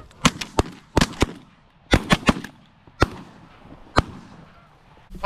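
A volley of shotgun blasts from several hunters shooting at geese: about a dozen shots in quick overlapping clusters over roughly four seconds, then a last single shot.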